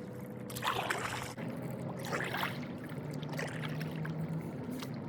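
Stand-up paddle board paddle dipping and pulling through river water in a few slow strokes, each a short splash with water trickling off the blade.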